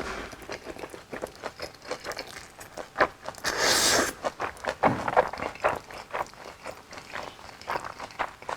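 Close-up eating and food-handling sounds: a continual run of small wet clicks and crackles, with a louder rustle lasting under a second about three and a half seconds in.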